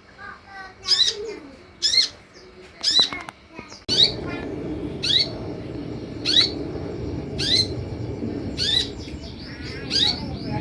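Sunbird calling: a sharp, high chirp repeated about once a second. A steady background hiss comes in suddenly about four seconds in.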